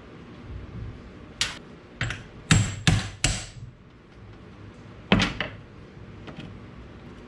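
A string of sharp knocks from hand-tool work on the suspension: about seven in all, three in quick succession midway and a close pair a couple of seconds later.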